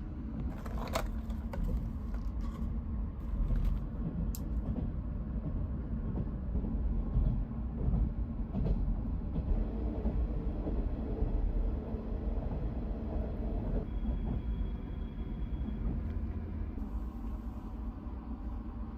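Sleeper train running, heard from inside the carriage: a steady low rumble of the car on the rails, with a few short clicks and knocks in the first few seconds.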